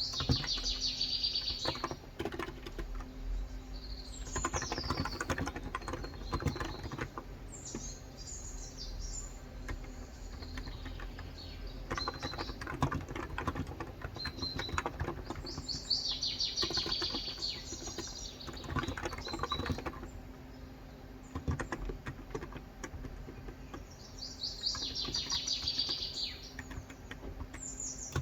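Typing on a Cox Endeavor electro-capacitive 35 g tenkeyless keyboard, a steady run of soft key clicks. A bird sings over it in short, rapid high trills every few seconds.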